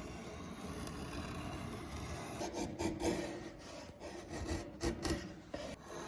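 Hand-worked rubbing or rasping strokes against a surface, irregular and uneven, starting about two and a half seconds in over a steady background hiss.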